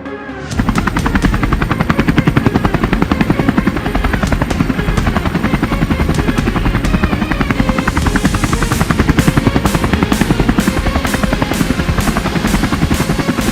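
Two small drone motors spinning propellers on a homemade can helicopter, a rapid buzzing chop that starts about half a second in, with a thin high motor whine over the first part.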